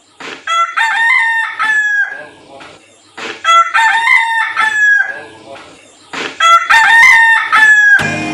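Rooster crowing three times, each a loud cock-a-doodle-doo of about two seconds, roughly three seconds apart. Music comes in right at the end.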